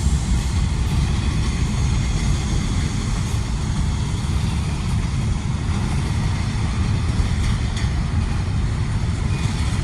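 A train passing with a steady, loud rumble of wheels on rail.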